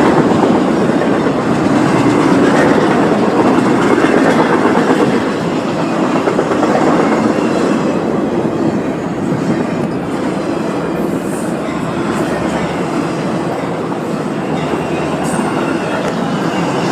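Norfolk Southern freight train cars rolling past, with steady wheel noise and clickety-clack over the rail joints, and faint brief wheel squeal a couple of times near the end.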